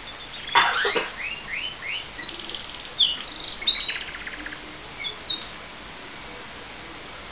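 Domestic canary singing a phrase of song: a run of quick, repeated falling whistled notes, then rattling trills, stopping about five and a half seconds in.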